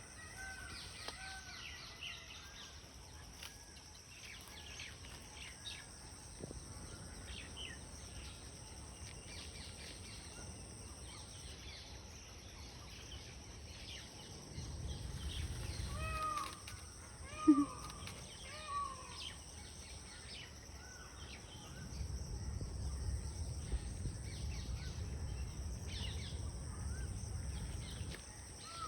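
Outdoor ambience of birds calling in short, arching notes, with a run of calls about halfway through, over a steady high insect buzz; low wind rumble on the microphone comes and goes, strongest in the second half.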